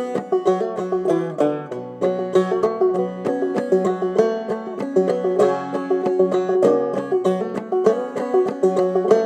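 Clawhammer banjo playing an instrumental passage: a quick, steady run of bright plucked notes over a droning string, with no singing.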